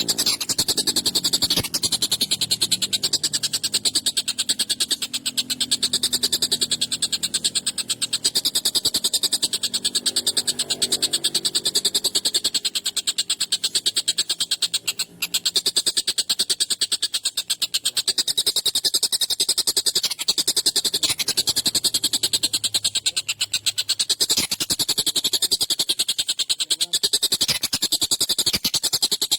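Collared kingfisher (tengkek buto) giving a harsh, rapid chattering call, kept up almost without pause, with one brief break about halfway through.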